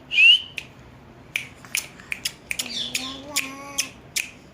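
A pet parrot gives one short, loud call that bends in pitch, followed by a string of sharp, irregular clicks and, in the middle, a soft pitched hum-like sound.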